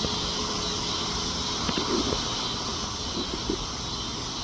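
Steady outdoor ambience: a constant high-pitched insect drone over an even background hiss, with a couple of faint, brief wavering sounds.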